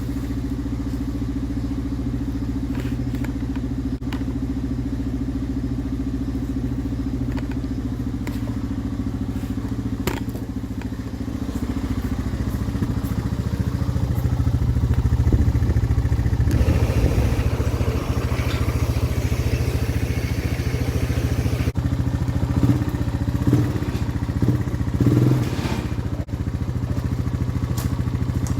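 Snowmobile engine running, holding a steady note at first. It grows louder and rougher from about halfway through and surges in a few short revs near the end.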